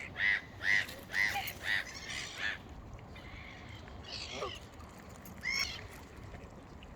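Bird calls: a run of short, honking calls about twice a second, then a couple of scattered calls.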